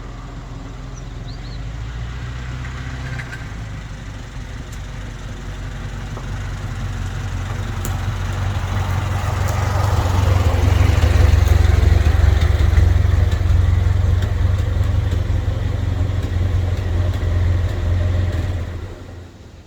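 1914 Ford Model T's four-cylinder engine running. It grows steadily louder over about ten seconds, stays loud, then stops abruptly near the end.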